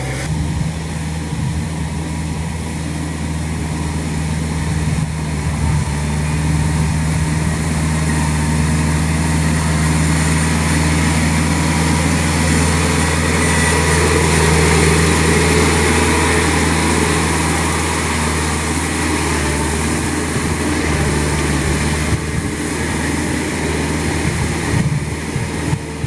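Kubota L3408 tractor's diesel engine running steadily under load, driving a rotavator through a flooded paddy. It grows a little louder about halfway through.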